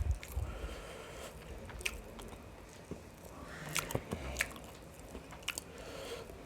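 A person chewing biryani and mutton gravy close to the microphone: wet smacking and scattered sharp clicks of the mouth, with louder bites around the middle.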